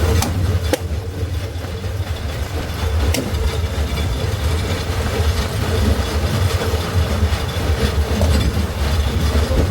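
Heritage train running on the old Hijaz Railway line in Wadi Rum: a steady low rumble, with a few sharp clicks in the first three seconds.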